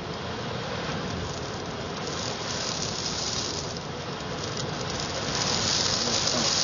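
Sandstorm wind driving sand and grit against windows: a dense hiss like heavy rain, swelling louder about five seconds in.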